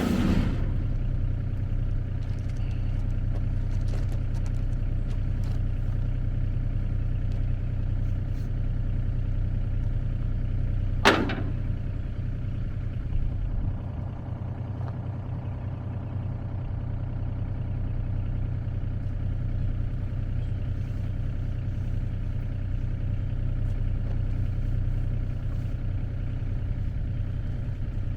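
An engine idling steadily, with one sharp knock about eleven seconds in.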